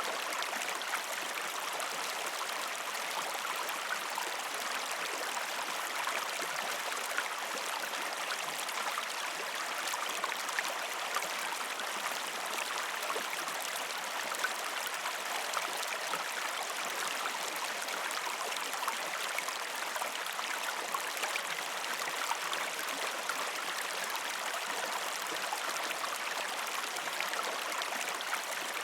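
A shallow river stream flowing over rocks: a steady, even rush of water dotted with many small splashes and gurgles.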